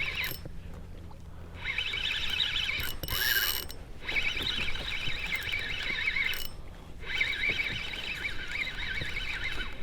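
Fishing reel drag whining as a hooked fish, a small bonito, pulls line off it, in three long runs separated by short pauses.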